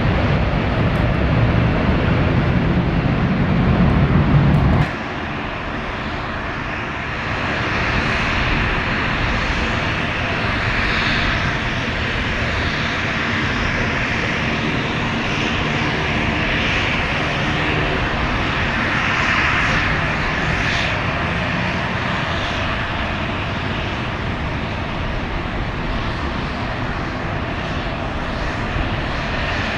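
Airliner engine noise: a heavy low rumble that cuts off abruptly about five seconds in, then a steady engine whine and rush.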